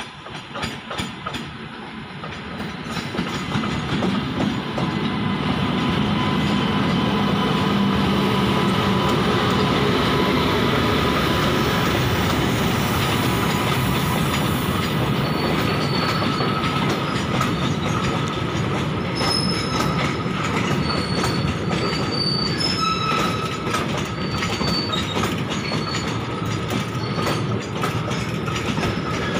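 Indian Railways WAP-7 electric locomotive passing close by, getting louder over the first few seconds, followed by a long string of flat wagons loaded with steel rails rolling past. Steady heavy wheel rumble and clatter, with short high wheel squeals coming and going in the second half.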